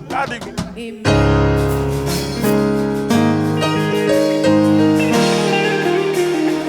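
Keyboard playing held chords over a deep bass, changing chord every second or so, after a short flurry of quick notes in the first second.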